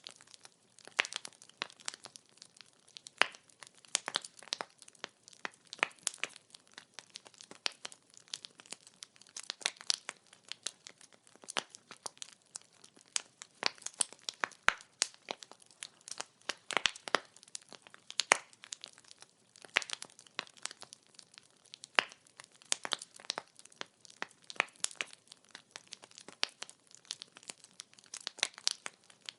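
Burning firewood crackling and popping: many sharp snaps at irregular intervals, several a second, some louder than the rest, over a faint hiss of the flames.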